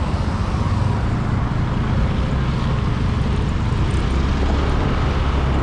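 Motorbike engine running steadily while riding, mixed with wind rushing over the microphone and road noise.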